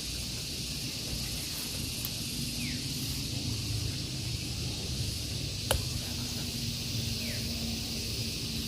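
Steady outdoor background hiss with a low rumble beneath it, broken by one sharp click about two-thirds of the way in.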